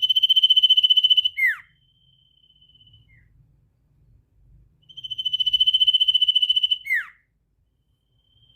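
A caged sirtu songbird singing its rapid 'ngetir' trill: a high, fast-pulsed trill of about a second and a half that ends in a sharp downward-swooping note. The phrase comes twice, about five seconds apart, and a faint thin steady whistle follows the first.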